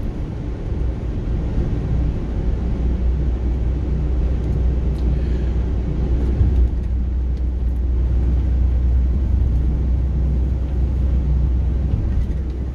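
Car's engine and tyres rumbling steadily from inside the cabin while driving along a rough, patched road, with a small jolt about six and a half seconds in.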